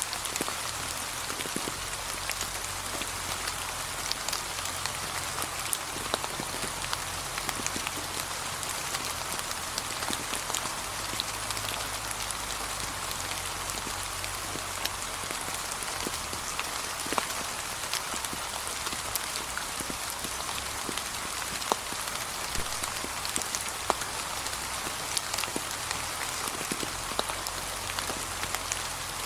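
Gentle, steady rain falling on fallen autumn leaves: an even hiss with many separate drops ticking irregularly throughout.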